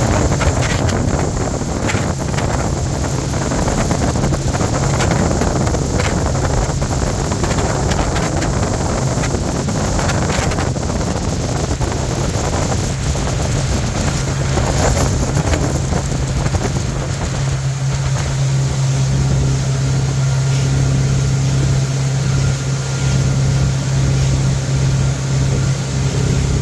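Bayliner motorboat's engine running steadily under way, a constant low hum, with wind buffeting the microphone. The engine hum grows stronger and plainer about two-thirds of the way through.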